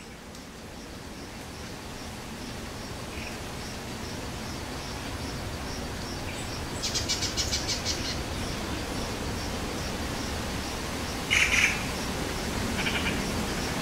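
Night nature ambience fading in under a steady hiss. A faint high chirp repeats about twice a second, a rapid trilling call comes about seven seconds in, and birds call louder near the end.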